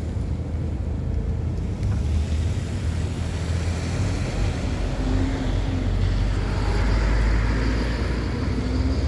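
Wind rumbling on the microphone over steady road traffic noise, the traffic swelling about two-thirds of the way through as a vehicle goes by.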